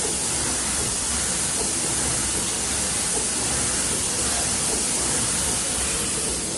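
Steady, even hiss of a running automatic rotary screen-printing line for glass bottles, with no distinct strokes or tones.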